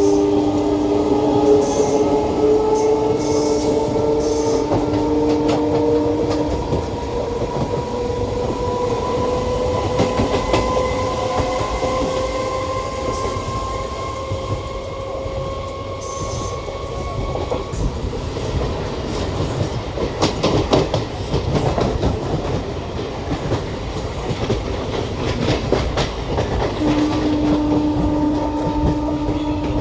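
Electric passenger train running on the track, heard from inside a coach by an open window, with wheels clattering over rail joints. A steady whine rises slowly in pitch through the first half and then stops, leaving a busier, irregular clatter of wheels on the rails.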